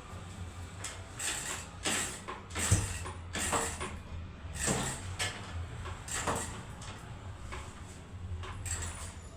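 Honda Pop 100 motorcycle being kick-started over and over, a series of irregular mechanical strokes without the engine catching yet, as it has sat unused for some days.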